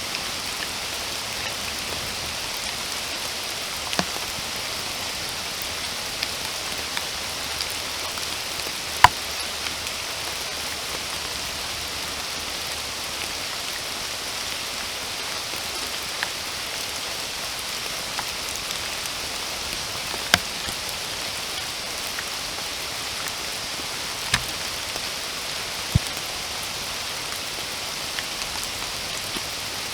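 Steady rainfall, an even hiss strongest in the upper range, with occasional single louder drops ticking close by; the sharpest comes about nine seconds in.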